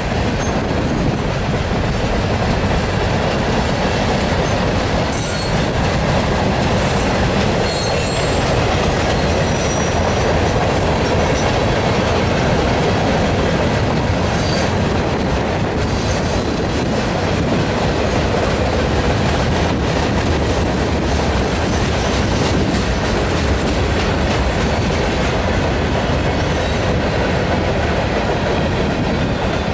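Freight train of boxcars and covered hopper cars rolling past close by. The steel wheels rumble and clack steadily over the rail joints, with brief high wheel squeals now and then.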